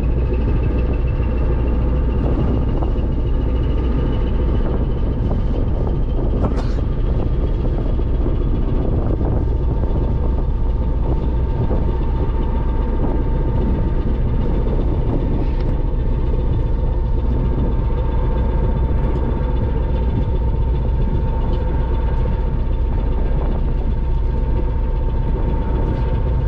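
Ferry engine running steadily: a continuous low rumble with a faint constant hum above it.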